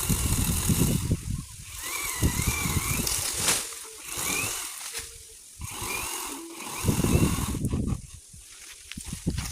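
Strong wind gusting against the microphone, with a high rushing hiss between the gusts and a few short rising tones.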